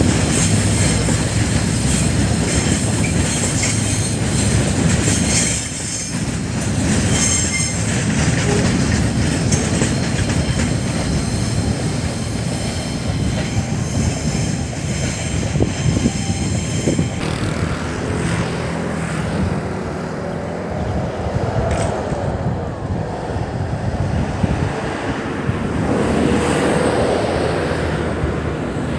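Freight train rolling past on the rails, a steady low rumble and clatter with high wheel squeal over it; the squeal stops about seventeen seconds in and the rumble eases.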